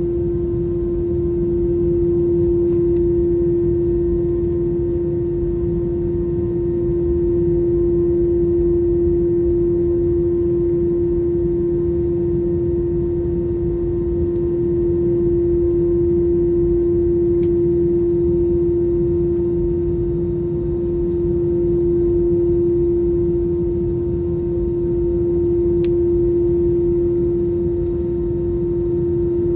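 Cabin noise of an Airbus A321 with its CFM engines at idle while taxiing: a steady low rumble under one strong, unwavering hum, swelling and easing gently every several seconds.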